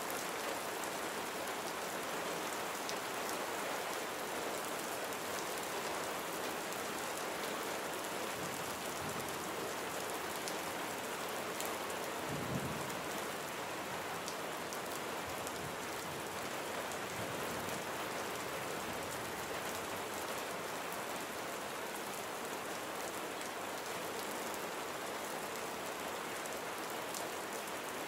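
Steady rain falling on a surface, an even hiss with fine drop ticks. A little under halfway through comes a brief low thump with faint low rumbling around it.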